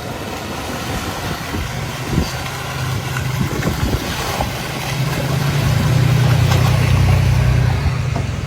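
Off-road truck engine running low and steady, growing louder from about five seconds in, with a few faint knocks.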